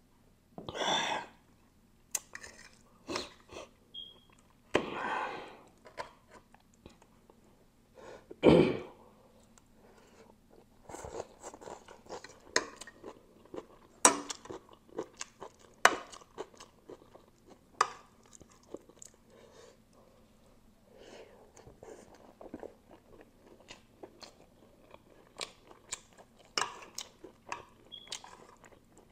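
Close-miked chewing and mouth noises of a person eating spicy noodles, with short sharp clicks of a metal fork and spoon against a ceramic plate. Three longer, louder mouth noises come in the first nine seconds, then a busy run of chewing and cutlery clicks.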